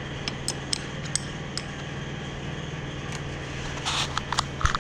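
Light metallic clicks and taps of hand tools working on a pit bike's brake fitting, a scatter of sharp ticks, then a short rattle and a few more taps with a dull knock near the end, over a steady low hum.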